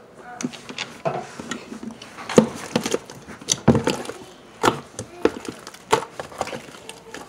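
Slime being mixed and worked: a string of irregular sharp clicks and knocks, several a second.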